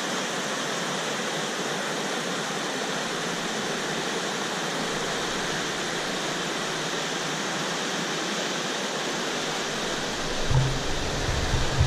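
Monsoon-swollen mountain river rushing steadily. Near the end, irregular low rumbling bursts come in on top of it.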